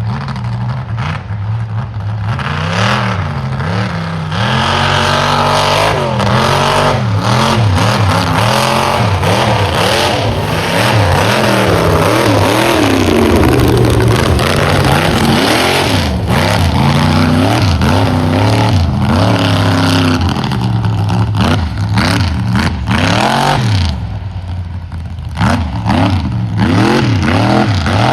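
Mega truck's engine revving hard again and again, its pitch climbing and dropping in quick swings, with a loud rushing noise over it for most of the stretch. It eases briefly near the end, then revs up again.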